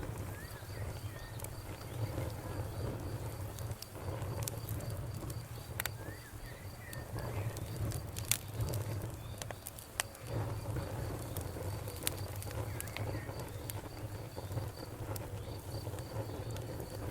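Wood fire burning in a fireplace: a steady low rumble of flames with sharp crackles and pops scattered through, the loudest about eight seconds in. A faint, evenly repeating high-pitched pulse, several beats a second, runs beneath it.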